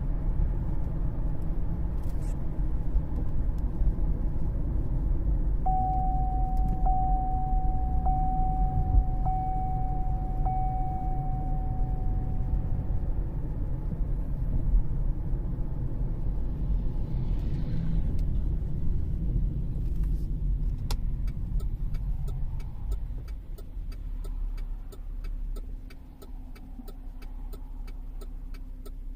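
Low, steady road and drivetrain rumble inside the cabin of a 2013 Cadillac CTS driving on a test drive, quiet with its new differential fitted. A steady tone sounds for several seconds early on. The rumble eases about two-thirds of the way in as the car slows, and an even ticking starts.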